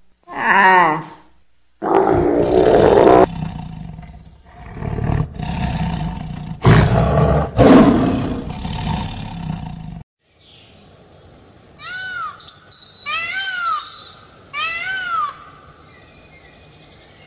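A brief camel call right at the start, then a tiger roaring repeatedly for several seconds. From about halfway through, an Indian peacock gives several high calls, each rising and then falling in pitch.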